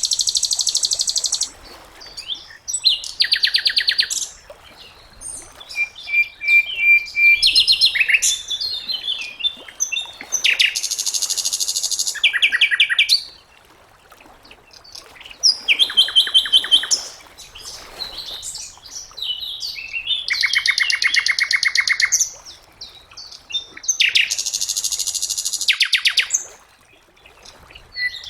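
Sikatan londo flycatcher singing: a series of rapid, high, buzzy trilled phrases, each a second or two long, separated by short pauses, with a single held whistle about six seconds in.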